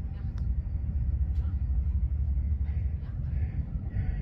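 Passenger train running: a steady low rumble, with a few faint clicks.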